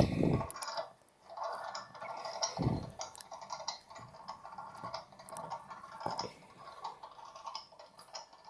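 LG Mini Turbo Drum mini washing machine running a wash cycle: irregular clicking and rattling with three short low thuds, at the start, about a third of the way in and about two-thirds of the way in.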